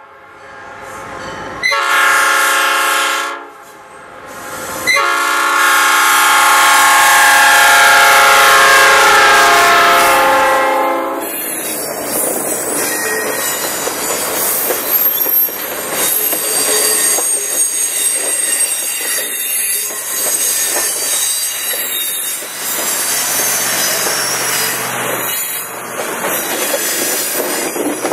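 Diesel locomotive air horn sounding for a grade crossing: a short blast about two seconds in, then a long blast of about six seconds that ends about eleven seconds in. After the horn, the passenger cars roll past with wheels clacking over the rail joints and squealing against the rails.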